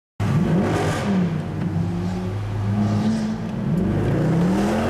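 Mercedes-Benz C63 AMG 507 Edition's 6.2-litre V8 engine revving and pulling, its pitch rising and falling several times, heard from inside the cabin. It cuts in suddenly just after the start.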